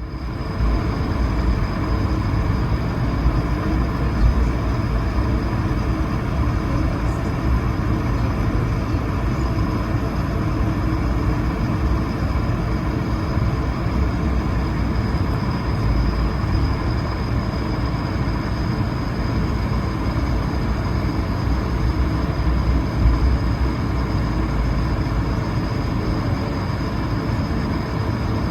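Steady cabin noise aboard an Airbus A220-300 airliner: a constant low rumble and rushing of its Pratt & Whitney PW1500G geared turbofan engines and airframe, heard from inside the passenger cabin.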